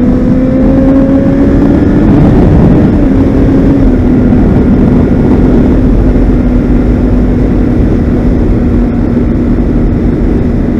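Motorcycle engine pulling up through the revs for the first few seconds, then settling to a steady cruise, over a heavy low rush of wind and road noise.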